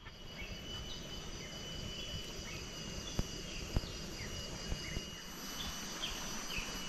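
Forest ambience: steady high insect buzzing with short falling bird chirps every second or so, over low rustling noise with two sharp knocks a few seconds in.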